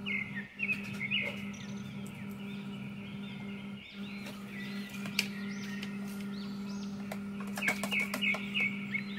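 A small bird chirping in quick runs of short arching calls, over a steady low hum. A few clicks sound near the end.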